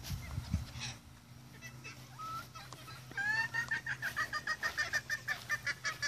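Chickens clucking, then about three seconds in breaking into a loud, fast run of short repeated calls.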